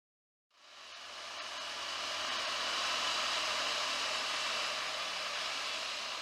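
A moving motorbike: a steady rushing noise with a faint engine hum beneath, fading up about half a second in and swelling over the next two seconds.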